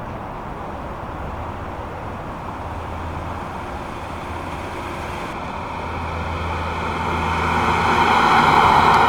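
1985 Cadillac Eldorado Biarritz driving, its engine and road noise steady, then growing louder over the last few seconds.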